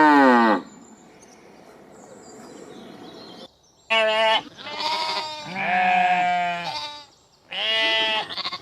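The end of a cow's moo, then a few seconds of faint background noise, then four bleats in quick succession starting about four seconds in, some with a wavering pitch, from goats or sheep.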